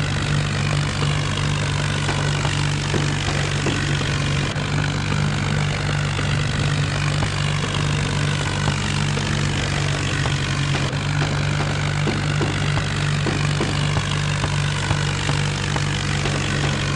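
Diesel tractor engine running with a steady low drone that changes little.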